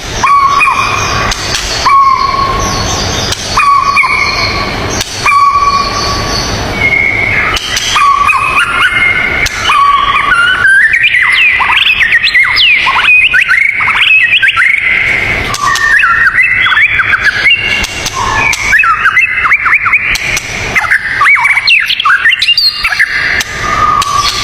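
Songbird singing: a series of short clear whistled notes repeated about once a second, then from about ten seconds in a fast, varied run of sweeping notes.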